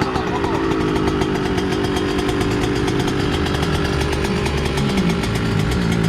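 Dirt bike engine running at a steady, buzzy mid-rev pitch that drifts slowly lower. A second, lower engine note comes in near the end.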